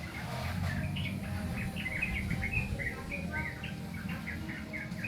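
Young yellow-vented bulbul (trucukan) practising its song: a rambling run of short twittering, chattering notes, over a low rumble of background noise.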